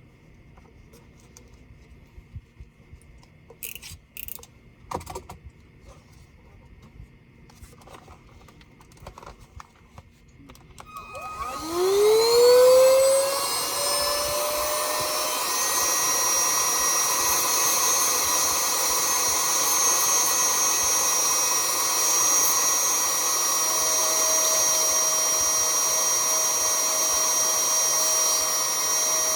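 A few faint clicks of small parts being handled, then about eleven seconds in a small electric motor spins up with a rising whine and runs steadily with a loud rush of air and a high whistle.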